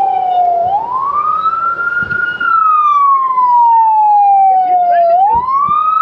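Police car siren on a slow wail: the pitch climbs quickly about half a second in, falls slowly over the next few seconds, then climbs again about five seconds in.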